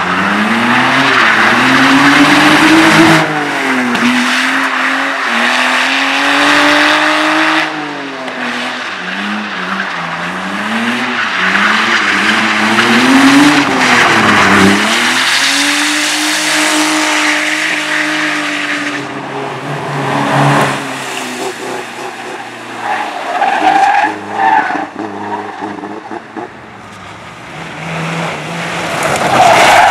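Race car driving hard through a slalom course: the engine revs up and drops back again and again between the turns, with tyres squealing and skidding. The engine gets quieter for a few seconds near the end, then builds again.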